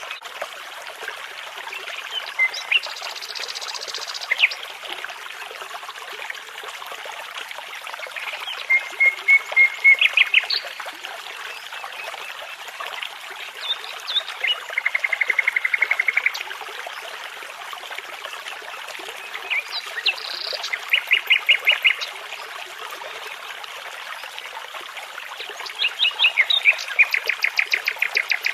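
Common nightingale singing short phrases of rapid repeated notes and trills, one every five or six seconds, over the steady babble of a brook.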